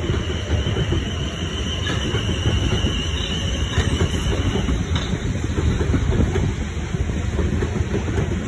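Electric multiple-unit trains rolling past close by, the Class 450 coming into view in the second half: a steady rumble and clatter of wheels on the rails. A thin, steady high squeal runs over the first half and stops a little past halfway.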